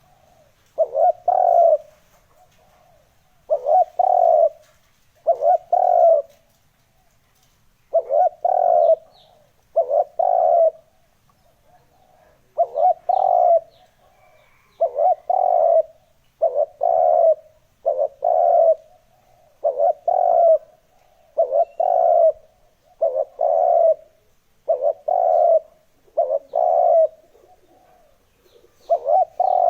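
Spotted dove cooing: a steady series of short phrases, each of two or three low notes, repeating about every two seconds.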